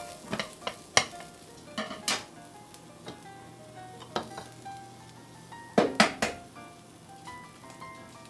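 Food sizzling in a frying pan while a utensil stirs it, with sharp clicks and scrapes of the utensil against the pan, loudest in a quick cluster about six seconds in. Soft background music plays underneath.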